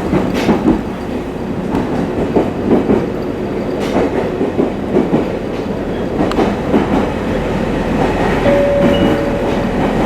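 A train running on rails, with the clickety-clack of wheels over rail joints and a continuous rumble. A brief steady whine rises out of it for about a second near the end.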